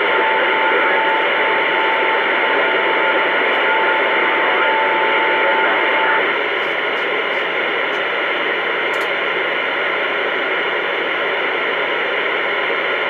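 CB radio static: a steady hiss through the radio speaker with an open channel and no one talking. A steady whistle tone rides on the hiss and cuts off about six seconds in.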